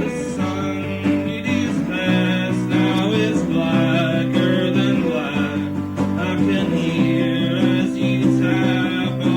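Acoustic guitar strumming chords in a song, with steady sustained notes that change about every second.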